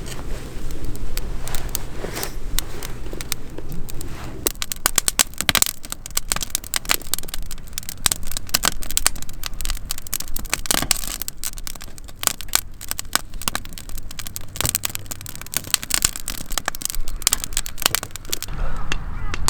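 Wood fire crackling, with many irregular sharp snaps and pops.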